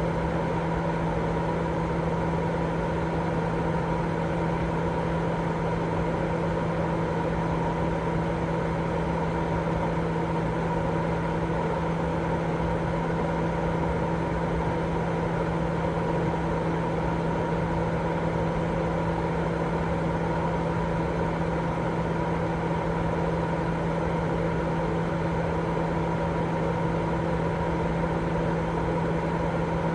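Continuous sleep-aid white noise: a steady, unchanging rushing hiss, heavier in the low and middle range, with a low hum running through it.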